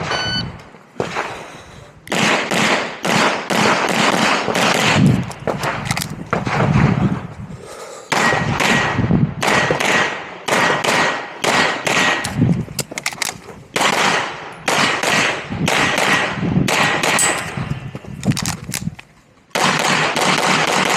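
Pistol shots fired in rapid strings of two or more, with short pauses between groups as the shooter moves or changes targets during a practical shooting stage.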